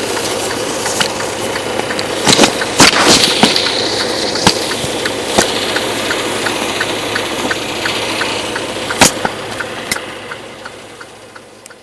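Truck engine running, with a steady light ticking about three times a second and a few sharp knocks; the sound fades out near the end.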